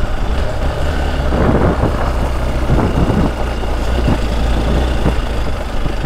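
Single-cylinder engine of a Hero Xpulse 200 4V dirt bike running at low, steady revs, with irregular scrapes and knocks over it.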